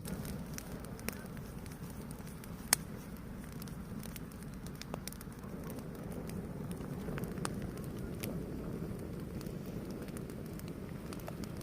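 A fire burning, with a steady low rush and scattered crackles, and one sharp pop a little under three seconds in.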